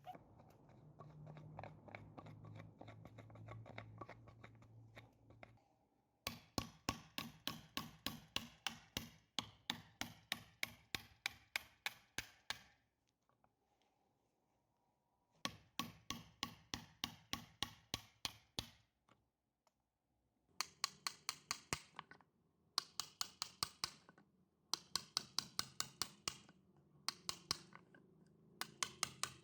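Runs of quick, even taps or knocks, about four a second, each run lasting a few seconds with short pauses between. A low steady hum comes first and stops about six seconds in.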